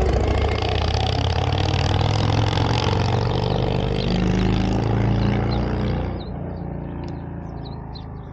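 A motor vehicle's engine running, its pitch slowly shifting, then fading away sharply about six seconds in. Birds chirp in the quieter stretch that follows.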